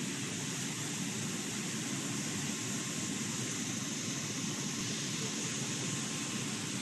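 Bubble washing machine running: a steady rushing noise of churning, air-agitated water and the machine's blower, with no breaks or separate knocks.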